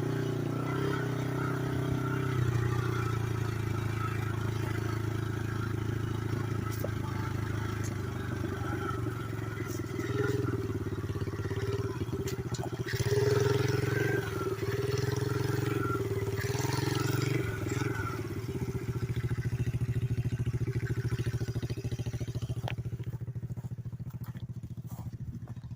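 Pit-bike engine on a home-built three-wheeler running under way, its note rising and falling with the throttle for several seconds past the middle, then easing off near the end.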